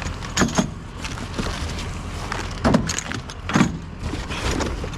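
Loose metal scrap clattering and clanking in a few separate bursts, some with a brief metallic ring, over the steady low rumble of a vehicle engine running.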